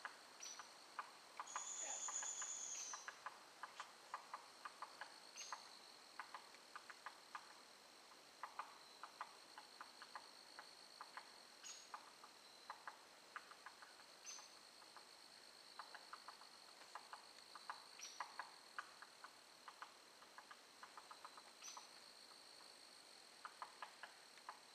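Faint footsteps crunching on a leaf-littered forest trail, with a steady high insect trill behind them and a short bird chirp every few seconds. About two seconds in, a louder high buzzing call lasts a little over a second.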